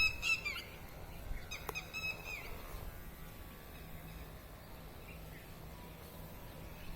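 A bird calling, two loud pitched calls, one at the start and one about a second and a half in, each bending in pitch, over a faint steady low hum.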